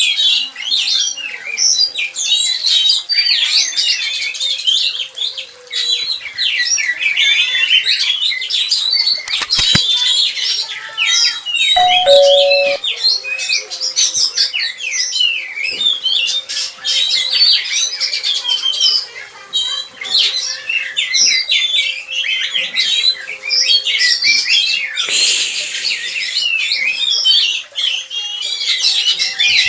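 Oriental magpie-robins chirping and calling without pause, many quick overlapping notes. A brief low two-note tone sounds about twelve seconds in.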